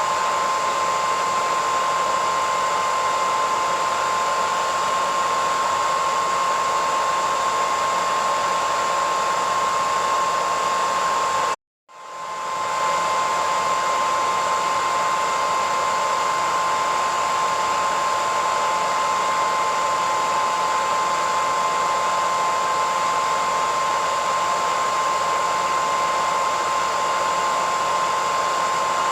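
Hair dryer running continuously: a steady rush of air with a high, steady whine. About twelve seconds in it cuts out completely for a split second, then swells back to full.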